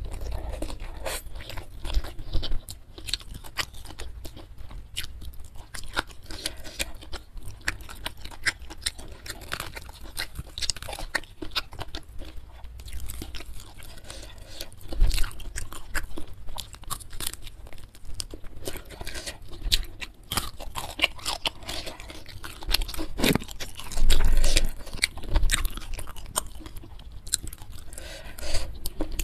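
Close-miked chewing and crunching: a mouthful of fried carp with rice and sambal eaten by hand, with many quick, irregular crunchy clicks and wet mouth sounds, louder for a moment near the end.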